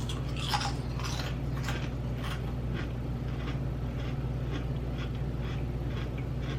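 Mouth-close crunching of rippled dill pickle potato chips being bitten and chewed: crisp crackles, loudest and densest in the first two seconds or so, then softer, spaced-out chewing crunches.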